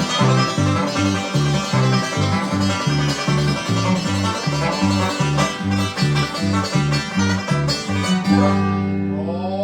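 Fast, hard-driving bluegrass music: banjo picking over a bouncing alternating bass line, ending near the end on a held chord that rings out.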